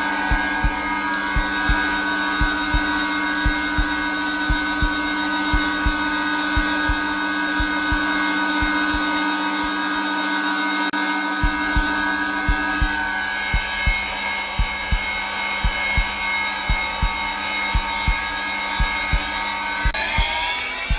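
Zelmer vacuum cleaner motor running steadily on its lowest setting, a whine with several steady tones, over a looped heartbeat of low double thumps. The heartbeat briefly drops out around the middle. Near the end the motor's pitch rises slightly.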